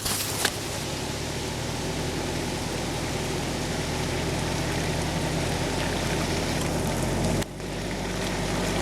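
Off-road SUV engine running steadily under load while crawling through deep mud ruts, with tyre and mud noise. It slowly grows louder and cuts out briefly about seven and a half seconds in.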